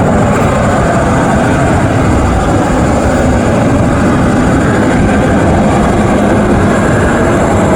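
AV-8B Harrier's Rolls-Royce Pegasus turbofan jet engine, a loud, steady rushing noise with a faint high whine that holds level throughout.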